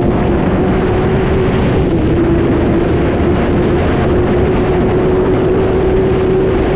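Suzuki GSX-R sportbike's inline-four engine running at a steady cruising speed, its pitch holding nearly level, under heavy wind rush.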